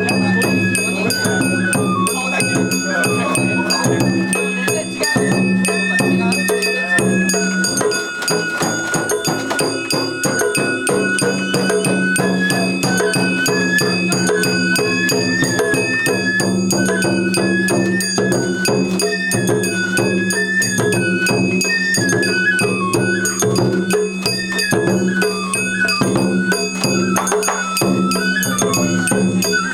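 Sawara-bayashi festival music: a high, wavering bamboo-flute melody over drums and ringing, jangling metal hand gongs, playing continuously.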